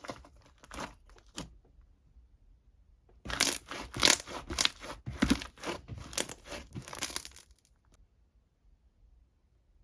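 Crinkling and rustling: soft rustles at first, then from about three seconds in, some four seconds of louder crackling and tearing that stops abruptly.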